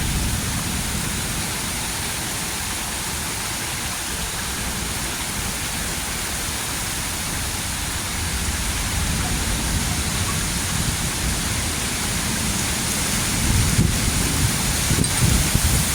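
Heavy rain pouring steadily during a severe thunderstorm. A low rumble swells in the second half, with several uneven louder low thumps near the end.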